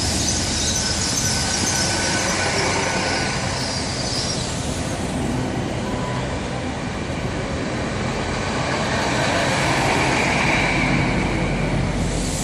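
Great Western Railway Class 800 IET train, two units coupled, running along the platform with a steady rumble and rail noise. A high-pitched wheel squeal sounds over the first few seconds.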